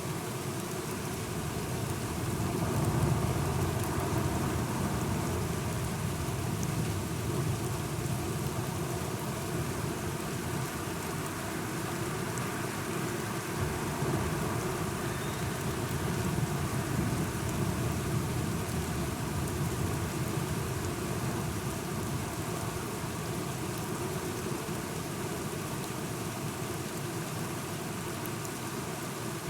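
Steady rainfall with low rolling thunder that swells and fades twice.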